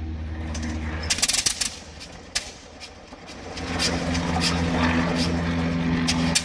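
Old radial aircraft engine running unevenly: a cluster of sharp pops about a second in, then a steadier run from about halfway that cuts off abruptly at the end.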